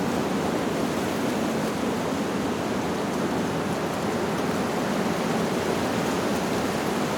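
Wind blowing through leaves: a steady, even rushing noise with no chime notes.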